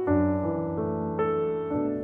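Piano music: notes and chords struck about every half second, each ringing and fading before the next.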